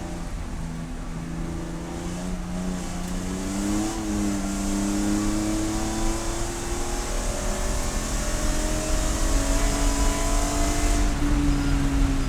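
Race car engine pulling hard under load, its pitch climbing slowly and steadily, with a brief dip about four seconds in. It drops sharply near the end as the driver lifts off, and a rushing hiss of wind and road noise runs under it until then.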